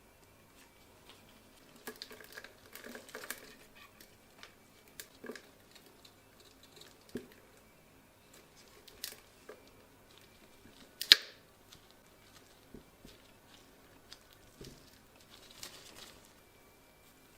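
Small handling sounds: scattered light clicks and rustles, with one sharp click about eleven seconds in.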